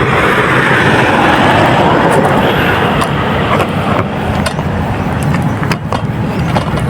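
Road traffic: a car passing close by, its tyre and engine noise swelling and then fading away in the first three seconds.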